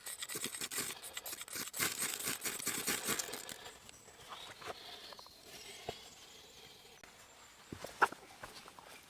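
Dense crackling rustle of dry leaves and twigs being trodden or shifted, busiest in the first three and a half seconds and then thinning out, with one sharp snap about eight seconds in.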